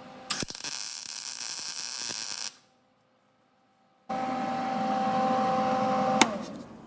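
Electric grinder working the Beetle's sheet-metal panels in two loud bursts of grinding hiss, with a gap of near silence between them. The second burst carries a steady motor whine that slides down and fades after a sharp click near the end, as the grinder is switched off and spins down.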